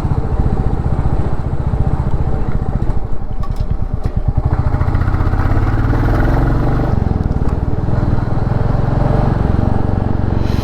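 Royal Enfield Classic 350's single-cylinder engine running steadily on the move, with the revs shifting a little around the middle.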